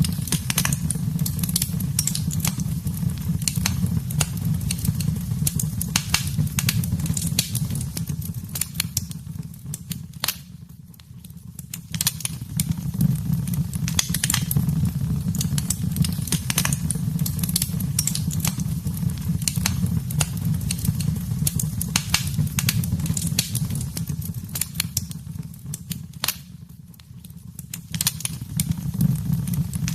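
Wood fire in a fireplace crackling and popping, with many sharp snaps over a steady low rumble of flames. The sound fades down briefly twice, about a third of the way in and near the end.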